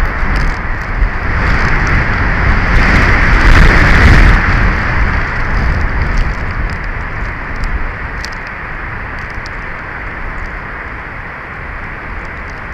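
Strong wind gusting over the nest camera's microphone: a heavy low rumble with a hiss, swelling to its loudest about three to four seconds in and easing after about eight seconds, with faint scattered ticks.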